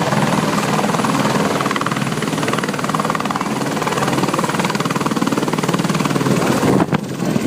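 Helicopter running steadily with a fast, even rotor chop. There is a brief break about seven seconds in.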